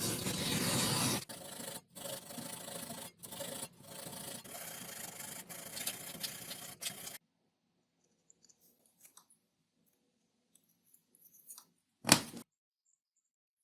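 Hand work on XPS foam: a run of rubbing and scraping strokes that stops about seven seconds in. Then a few faint ticks and one sharp knock near the end.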